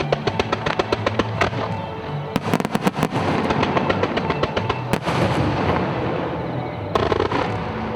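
Aerial fireworks bursting and crackling in rapid salvos, many reports in quick succession with a cluster near the end, over background music.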